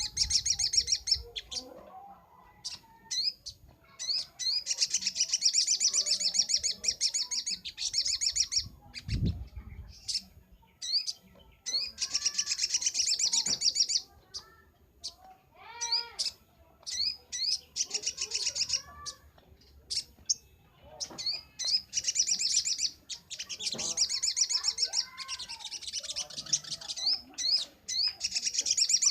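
Little spiderhunter (sogok ontong) song: long runs of rapid, high-pitched chattering trills, broken by short sharp chips and lower arched whistled notes. There is one low thump about nine seconds in.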